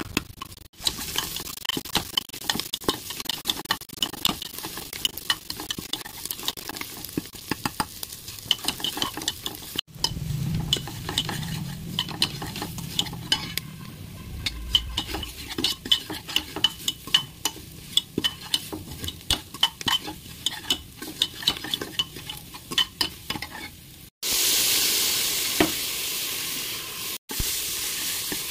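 Sliced onions frying in ghee in a pan, sizzling, with a steel spoon scraping and clicking against the pan as they are stirred. Near the end comes a louder, steady sizzle, with chopped tomatoes cooking in the hot pan.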